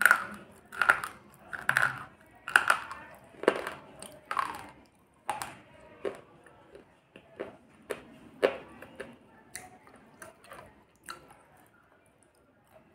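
Slate pencil being crunched between the teeth: crisp crunches about one a second, turning fainter and more irregular after about five seconds.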